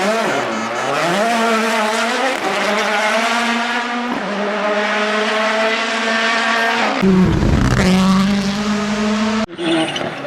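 Rally car engine at full throttle. It drops low briefly, then revs up, shifts about four seconds in and holds high revs. A low rumbling blast comes as it passes close, near seven seconds in. It cuts abruptly to another car's engine near the end.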